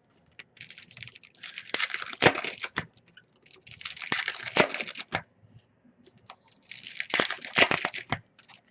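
Sports card packs being handled and opened, with the cards flicked through: three runs of quick crisp clicking, crinkling and tearing, with short pauses between them.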